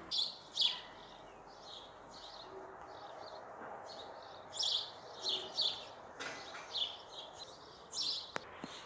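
Small birds chirping outdoors: many short, high chirps in quick, irregular runs, some louder about half a second in and around four and a half to five and a half seconds in, over faint background hiss.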